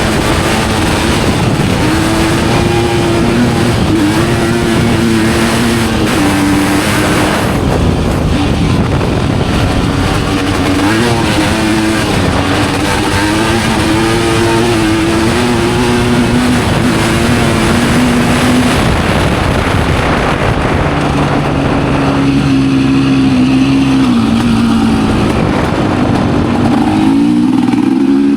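Studded ice-racing motorcycle engines running at race speed. Their pitch keeps rising and falling in steps as the riders rev, shift and back off.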